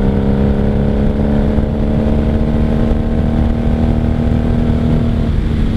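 1995 Honda Magna's V4 engine running on the road, its pitch easing slightly lower, with wind rush. The engine note changes about five seconds in.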